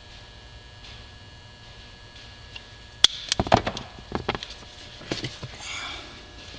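Hands working a wiring harness and electrical tape: a sharp click about three seconds in, then a cluster of knocks and rustles, a few more knocks, and a short rasp near the end.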